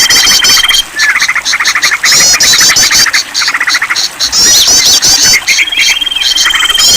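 Several songbirds calling over one another: rapid pulsed trills, quick high chirps repeated many times, and a long steady high whistle, once at the start and again near the end.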